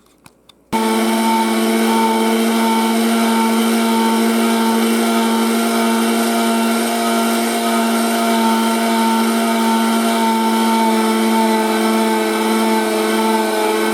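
Electric kitchen grinder switching on about a second in and running at one steady pitch, grinding raw herring, bones included, with potato and onion.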